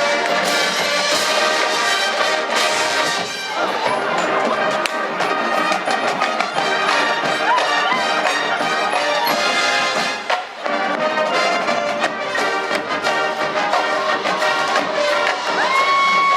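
Marching band playing: brass section over drumline percussion, loud and continuous, with a brief dip about two-thirds of the way through.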